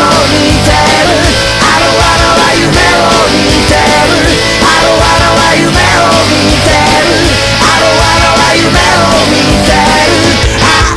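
Rock music played loud and steady, with a regular drum beat and a melodic instrumental line.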